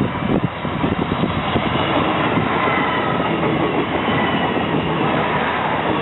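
Diesel multiple unit train passing close by, a steady loud rumble and rush of wheels on rail, with rapid clacks of the wheels near the start.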